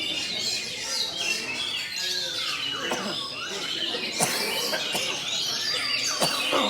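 Several oriental magpie-robins (kacer) and other caged songbirds singing over one another in a dense chorus of chirps, trills and whistles. A few sharp calls sweep steeply down in pitch about three, four and six seconds in.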